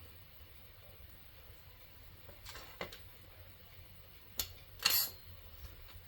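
Small handling noises from polymer clay work at a desk: a few light taps and clicks, and a brief scrape about five seconds in, over faint room noise.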